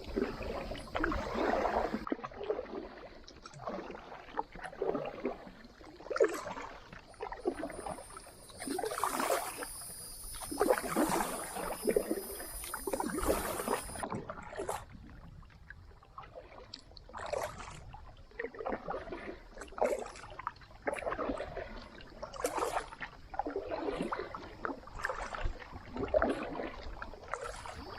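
Kayak paddle strokes dipping and pulling through the water, a splash about every second or two.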